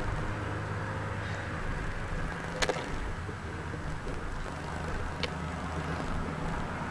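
A steady low hum under an even hiss, with two short sharp clicks, one about two and a half seconds in and another just past five seconds.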